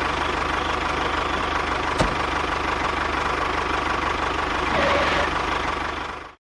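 Engine idling steadily with an even, rapid knock, with a single sharp click about two seconds in. It cuts off suddenly at the end.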